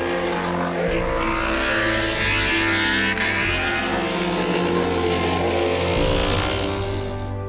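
Inline-four racing motorcycle engine running hard, its pitch rising and falling as it revs through the gears, fading toward the end.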